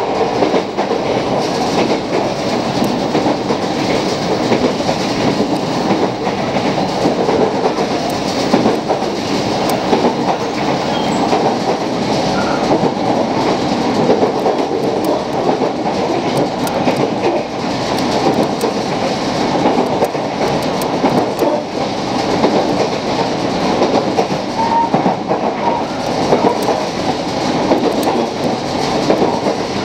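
JR Kyushu 817 series electric train heard from inside the passenger car while running: a steady rumble of wheels on the rails, with faint scattered ticks.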